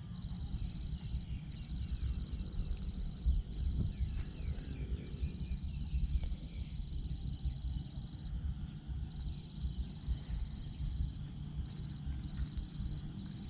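Insects trilling in a steady, high-pitched drone, over a low, uneven rumble of wind on the microphone.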